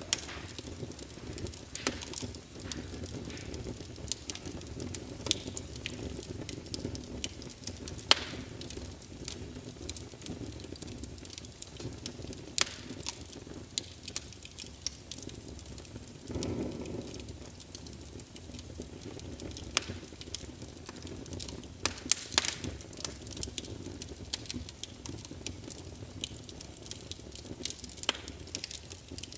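Wood fire crackling in a fireplace: irregular sharp pops and snaps over a steady low rumble, with a brief swell in the rumble just past the middle.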